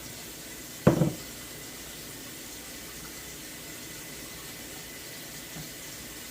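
Steady wash of running tap water while a measuring cup is filled, with a single loud thump about a second in.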